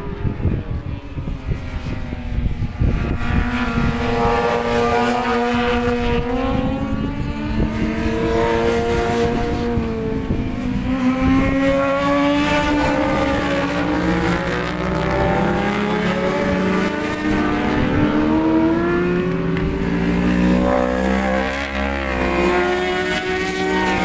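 Racing motorcycle engines running hard on track, their pitch rising and falling repeatedly as the bikes accelerate and shift gear, over a steady low rumble of wind on the microphone.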